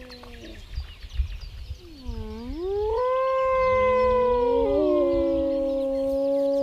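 Several wolves howling together: long, held howls that overlap at different pitches. A howl fades out early, then a new one dips down and slides back up about two seconds in, and others join it from about three seconds on. Low rumbling thumps sound during the first couple of seconds.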